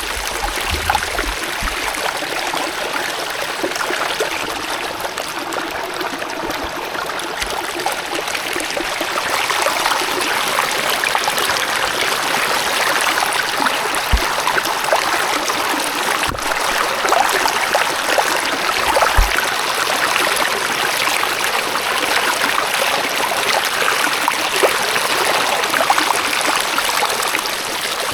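Steady sound of running, trickling water, with a few brief low bumps partway through.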